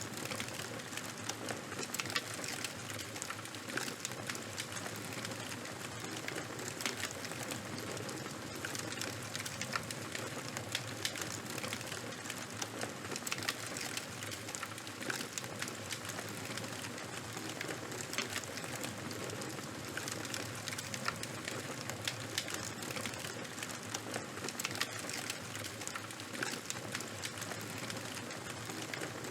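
Charcoal and bonfire crackling: a steady hiss with frequent small, irregular pops and snaps.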